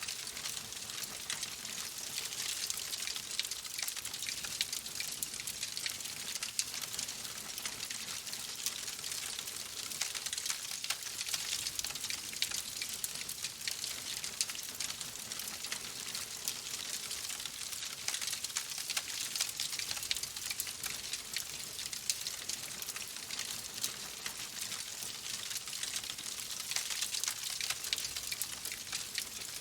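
Wood fire crackling steadily in a fireplace: a constant hiss over dense small pops and snaps.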